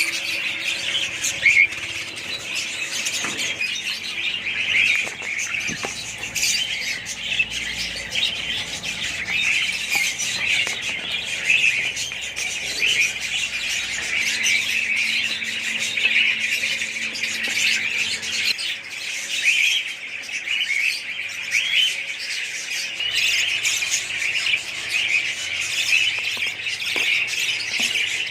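A flock of budgerigars chattering: a dense, continuous chorus of many overlapping chirps and squawks.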